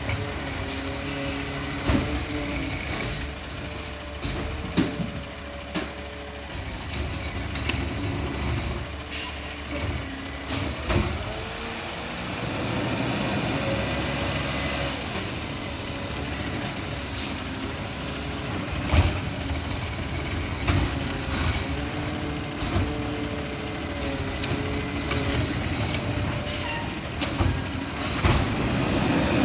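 Freightliner 108SD garbage truck with a McNeilus ZR side-loader body working: its diesel engine runs steadily under a held hydraulic whine, with repeated sharp clanks and knocks.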